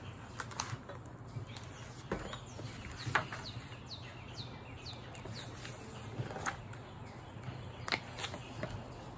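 A bird outdoors giving a run of about six short, falling chirps, starting about three seconds in. A low steady hum and a few light clicks and taps sit under it.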